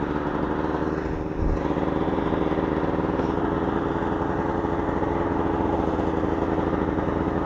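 A small engine running steadily under load at an even pitch, with a brief low bump about a second and a half in.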